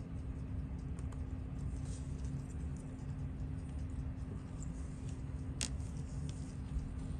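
Light clicks and taps of watchmaker's tools against small metal watch parts as the movement is taken out of the watch case, the sharpest click about five and a half seconds in. A steady low electrical hum runs underneath.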